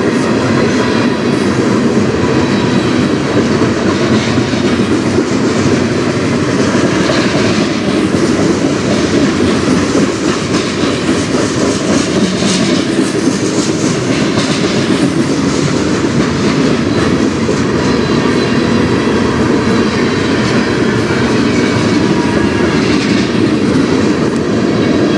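Train cars rolling past, with a steady, loud noise of steel wheels on the rails that does not let up.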